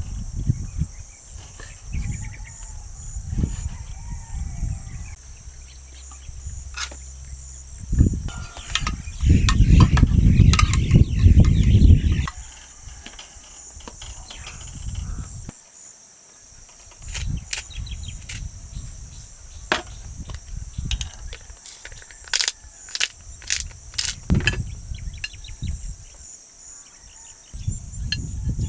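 Steady high-pitched insect chorus, with irregular low rumbles and scattered sharp clicks and knocks.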